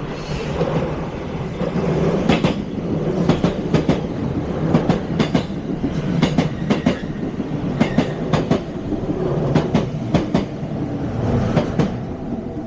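A train passing through a station, its wheels clattering over rail joints in quick pairs of clicks over a steady rumble.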